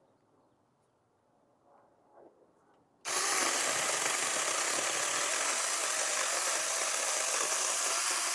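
Saker mini electric chainsaw starting suddenly about three seconds in and running steadily, cutting through a dense hardwood crape myrtle branch. Faint handling rustles come before it.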